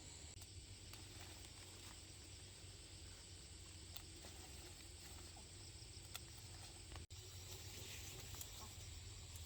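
Near silence: faint steady background hiss and low hum with a few light ticks, broken by a short dropout about seven seconds in.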